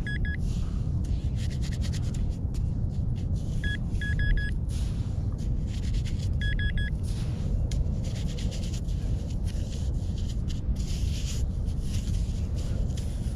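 A metal detector gives three short runs of quick, high beeps a few seconds apart, over a steady low rumble and scratchy scraping in sand.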